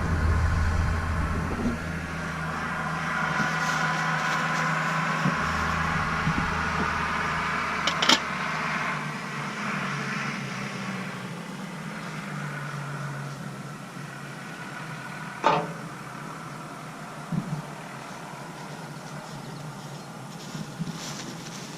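Farm tractor engine running as it comes up, a steady drone that eases off a little in the second half. Two sharp knocks stand out, about eight seconds in and again about fifteen seconds in.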